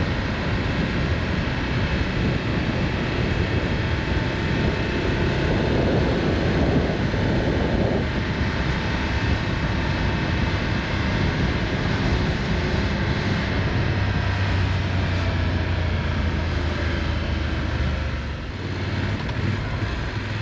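Motorcycle on the move: wind rushing over the microphone over the steady drone of the engine, with a low engine hum standing out more clearly in the last third.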